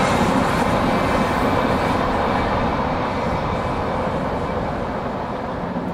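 Freight train cars rolling on the rails as the tail end of the train passes and moves away. The steady rumble fades slowly.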